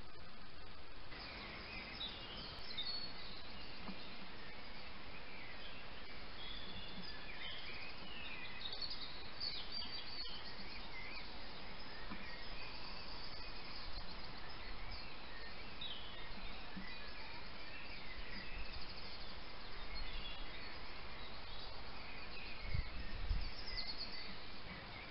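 Birds chirping and singing over a steady hiss. A few low thumps come near the end.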